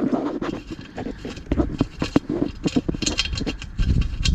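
Hand work on a dirt bike's exhaust expansion-chamber mount: a run of small metal clicks, clinks and scrapes as a nut, bolt and washer are fitted, busier toward the end.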